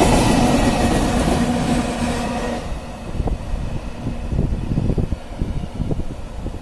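Iron-ore gondola wagons of a freight train rolling past on steel wheels, with a steady ringing tone over the rumble. The noise drops off sharply about two and a half seconds in as the last wagon passes. After that mostly wind buffets the microphone.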